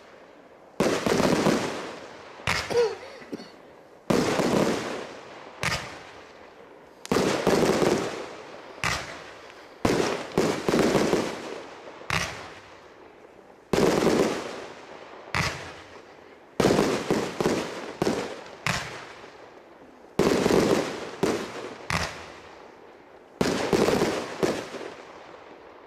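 An 80-shot V-shaped fireworks cake firing: a sharp report about every second and a half, each followed by a smaller second report and trailing off over a second or so, until the last shots near the end.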